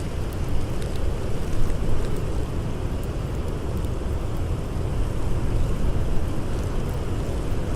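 Steady low rush of blizzard wind, with a few faint, sparse crackles of a burning campfire on top.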